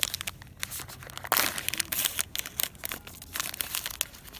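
Irregular crinkling and crackling that starts suddenly and keeps on, as of dry material or packaging being handled.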